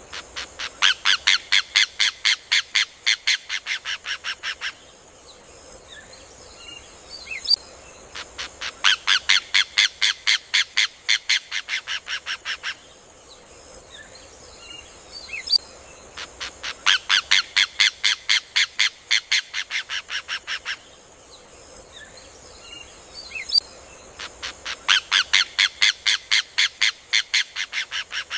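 Rufous hornero (João-de-barro) singing: four bouts of rapid, loud, evenly spaced notes, about six a second, each bout lasting about four seconds and fading slightly toward its end, recurring every eight seconds. Faint chirps of other birds and a steady high hiss sit between the bouts.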